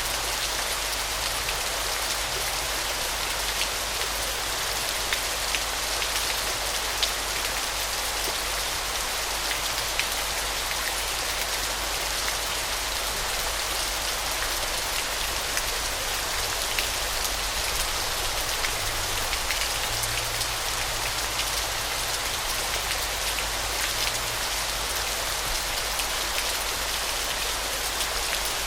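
Waterfall: a steady, even rush of falling water, peppered with fine droplet splashes.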